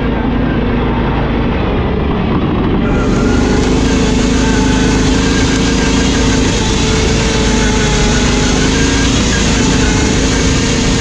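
Riding lawn mower engine running steadily under load with an even pitch; a broader rushing noise joins about three seconds in.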